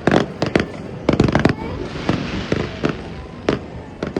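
Fireworks bursting in a quick, irregular string of sharp bangs, with a hissing crackle about halfway through.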